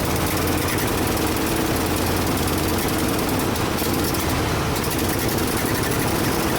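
1976 Ford F-600 dump truck's carbureted engine idling steadily and unevenly, running poorly; the men working on it suspect a vacuum leak.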